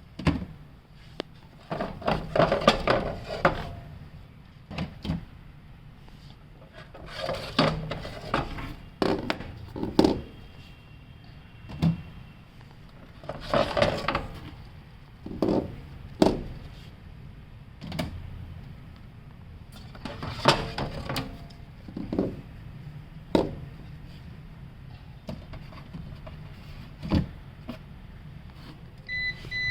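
Bouts of knocking and clattering every few seconds over a low steady hum, with a short electronic beep at the very end.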